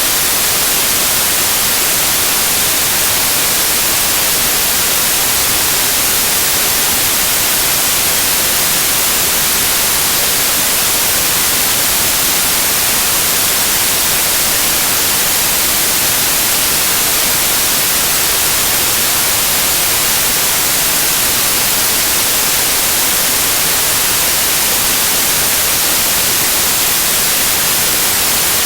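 Loud, steady white noise: an even hiss with no changes or events.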